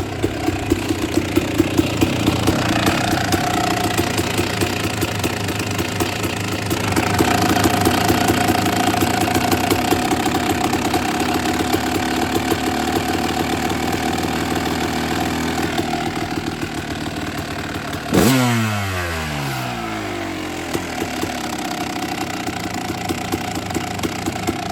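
1999 Kawasaki KX250 two-stroke engine idling steadily after a cold start, at an idle set too low. About 18 seconds in there is one quick throttle blip, and the revs fall back to idle.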